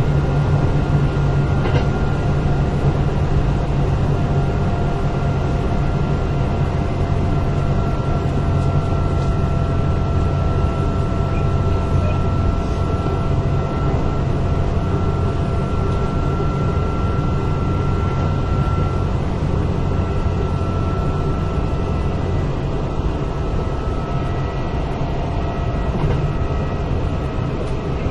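Interior running noise of a Kintetsu 8000 series electric train car, heard from inside while under way at speed: a steady low rumble of wheels on rail, with faint tones from the drive that drift slowly in pitch.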